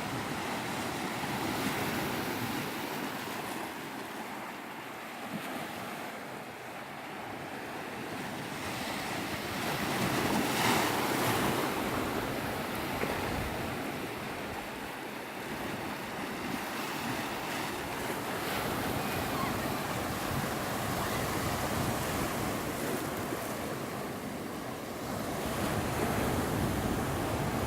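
Sea surf washing onto a beach, swelling loudest about ten seconds in and again near the end, with wind on the microphone.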